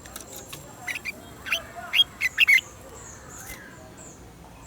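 Red-whiskered bulbul singing: a quick run of loud, short, sharp notes about a second in, followed by fainter high twittering.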